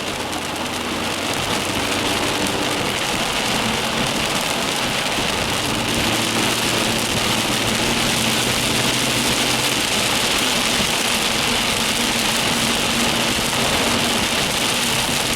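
Steady rushing hiss of rain and water around a car driving through a flooded street, building over the first couple of seconds and then holding, with a faint low engine hum underneath.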